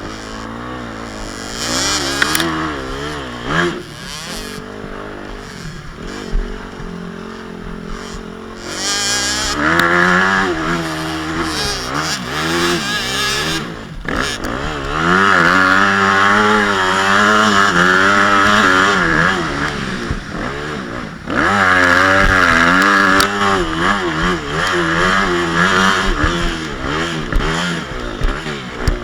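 Motocross motorcycle engine revving up and down over and over, its pitch rising and falling with the throttle. There are several longer, louder stretches of hard revving.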